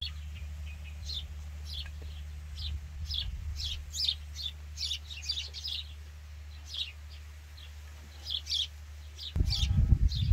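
Small birds chirping: many short, high, falling chirps in irregular bursts, over a steady low rumble that gets louder near the end.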